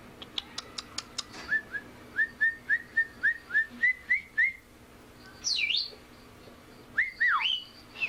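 Pet bird whistling: a string of short rising chirps, about three a second, then a swooping whistle that dips and climbs again, and a few more falling and rising notes near the end. A few sharp clicks come in the first second.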